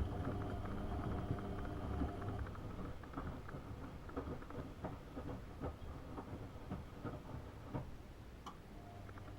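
AEG Öko-Lavamat 72520 front-loading washing machine during a wash: the drum motor hums for about the first two seconds, then stops, leaving the washing and water in the drum sloshing and pattering with many small irregular clicks.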